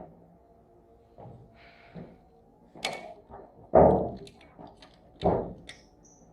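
A series of irregular knocks and thuds, about five in all, the loudest near the middle, with a few small clicks between them.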